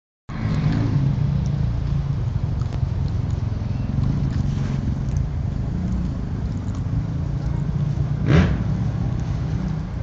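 An engine running steadily with a low rumble, and one short sharp sound about eight seconds in.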